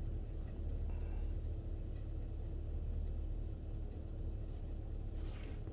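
GMC Savana 3500 van's engine idling, a steady low rumble with a faint even hum above it.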